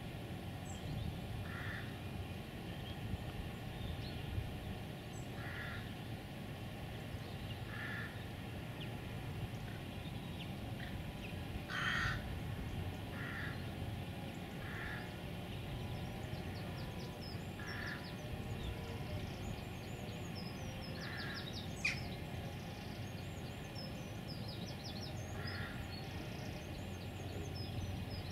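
A bird calling over and over, one short call every two to four seconds, with small birds chirping faintly in the second half.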